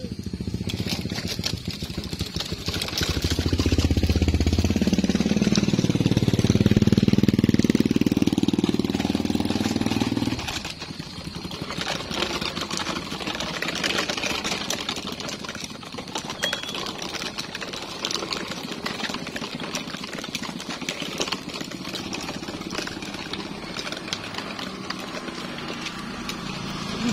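Engine of a heavily loaded truck working hard close by, its pitch rising and falling for several seconds. About ten seconds in it drops to a quieter rumble with scattered rattles.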